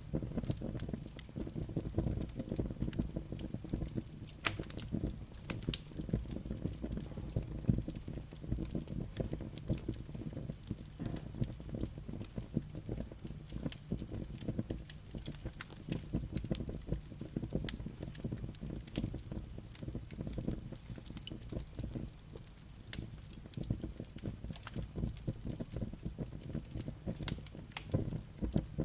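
Wood fire burning in a fireplace: a steady low rumble of flames with frequent small crackles and pops from the burning logs and embers.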